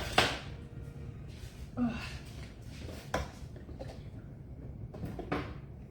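A few sharp knocks and clicks of household things being handled, three spread over several seconds, over a low steady hum.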